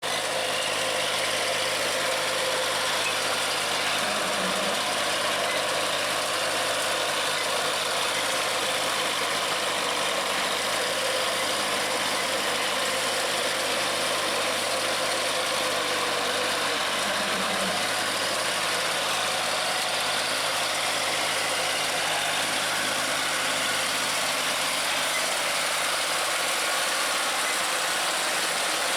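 New Holland tractor's diesel engine running steadily while working in deep paddy-field mud.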